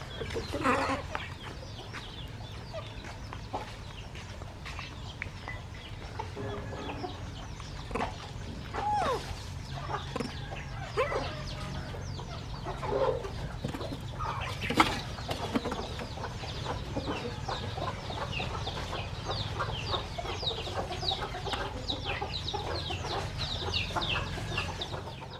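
Chickens clucking, with a few louder calls in the middle, while many small birds chirp in quick, high, falling peeps that grow thicker toward the end. A steady low hum runs underneath.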